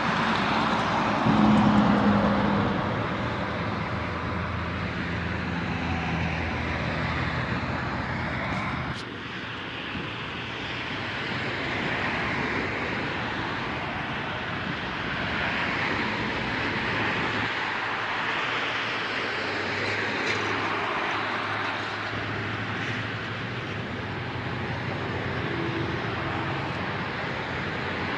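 Road traffic with trucks passing: a steady rush of tyre and engine noise, loudest about two seconds in, with engine hum coming and going as vehicles go by.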